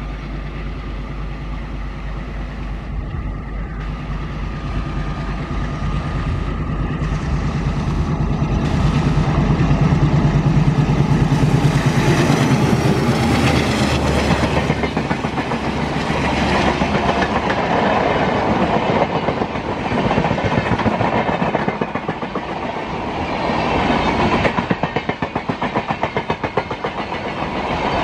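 WDM3A diesel locomotive hauling a passenger train at speed: the engine's steady drone grows as it approaches and peaks as the locomotive passes near the middle. Then the coaches rush by with a rapid clickety-clack of wheels over rail joints.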